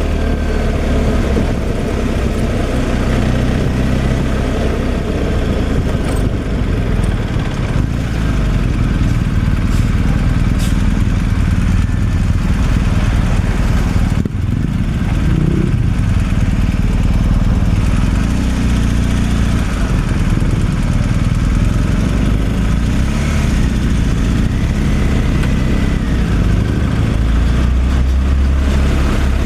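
Truck engine and road noise while driving, a steady low rumble with no letup.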